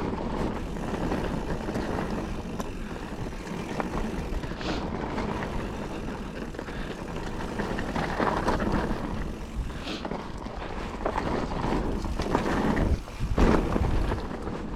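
Mountain bike ridden along a loose, dry dirt trail: steady tyre noise over the ground with many small clicks and rattles from the bike, briefly dropping away just before the end and then coming back louder.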